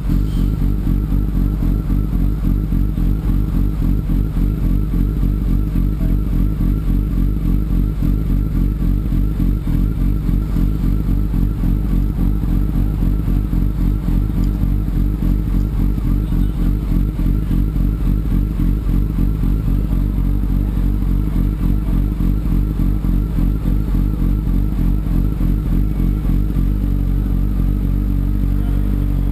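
Sport motorcycle engine running under way with a rapidly pulsing note, settling to a steadier, even note near the end.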